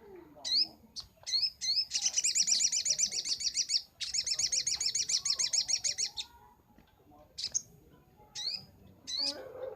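Sogok ontong (sogon) sunbird singing: a few sharp, high sliding chirps, then two long, fast trills of about two seconds each, then scattered chirps again.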